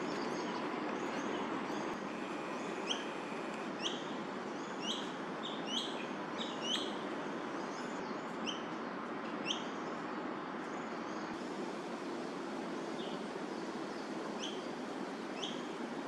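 A bird calling in short, sharp upward-hooked chirps, about one a second at first and then only now and then, over a steady traffic hum.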